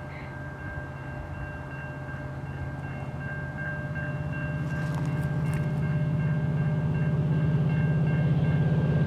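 Diesel freight locomotives approaching, their low engine drone growing steadily louder.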